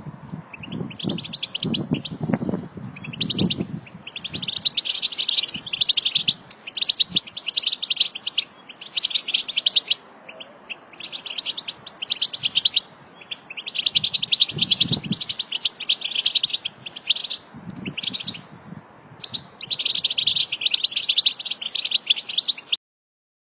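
European goldfinch singing in fast, twittering phrases broken by short pauses, the kind of song played to stir a silent caged goldfinch into singing. A few low muffled sounds lie underneath, and the sound cuts off abruptly near the end.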